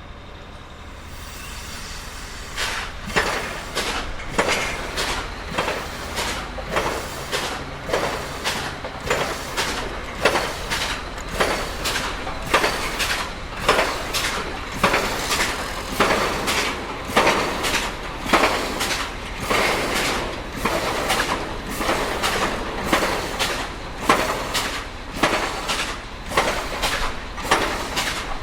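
Pile driver at work: a steady low engine drone with repeated sharp metallic impact blows, a little over one a second, starting about two and a half seconds in and keeping an even rhythm.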